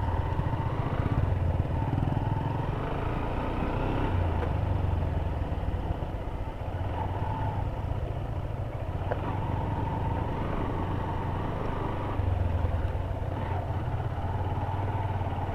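Honda CB Hornet 160R's single-cylinder engine running while being ridden, its low note swelling and easing with the throttle.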